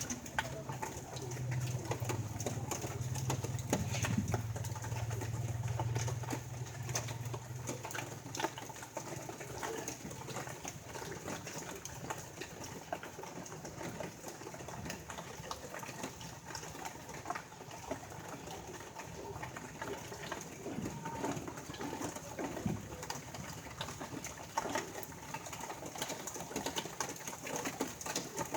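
Birds cooing, with a low steady hum over the first several seconds and scattered faint clicks throughout.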